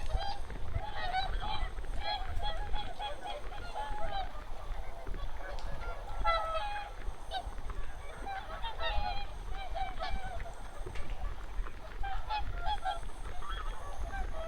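A large flock of wild geese calling, with many short honks overlapping without pause.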